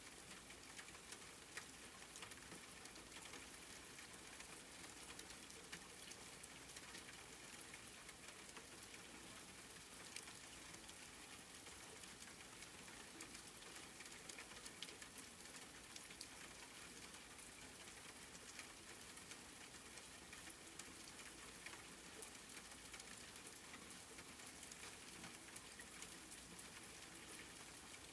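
Wood fire crackling faintly: a steady hiss with many small snaps and pops, and one sharper pop about twenty-two seconds in.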